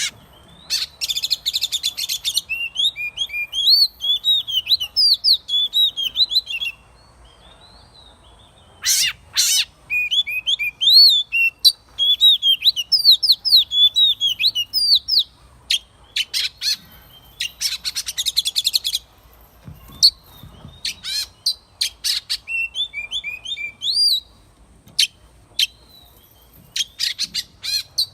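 Oriental magpie-robin singing: phrases of clear whistled notes that slide up and down, mixed with harsh rapid rattling notes, in several bursts with short pauses between.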